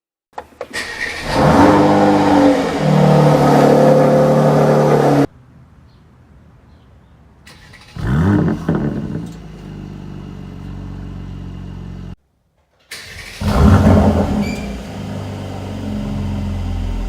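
Mercedes-AMG C43's twin-turbo V6 exhaust starting with a short crank and a loud flare of revs, then settling to a steady fast idle. Two more times the revs flare up and fall back to idle, the second after a short silent gap.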